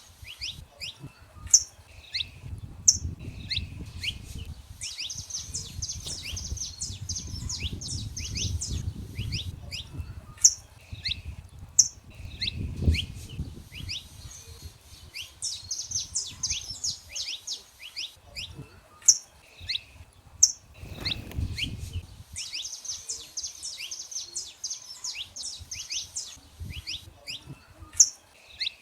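Saffron finches singing: repeated phrases of quick, high, down-slurred notes, each lasting a few seconds, with single sharp high notes between them. A low rumble comes and goes underneath.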